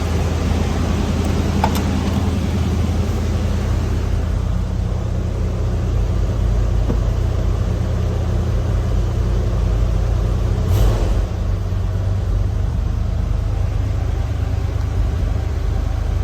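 1979 Ford F-350's 460 big-block V8 idling steadily, warming up after a cold start that followed two to three days unused. A short louder burst stands out about eleven seconds in.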